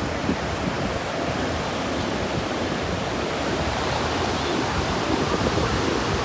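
Ocean surf washing on the beach: a steady, even rushing noise.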